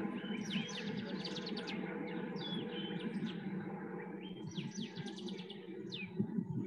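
Small birds chirping and trilling repeatedly in short, quick phrases over a steady low background noise.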